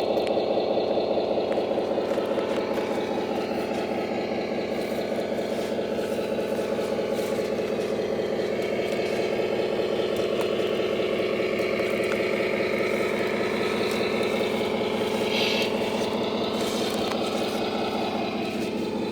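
Axial SCX6 RC crawler running with a steady engine-like drone, with a faint pitch that wavers up and down as the speed changes.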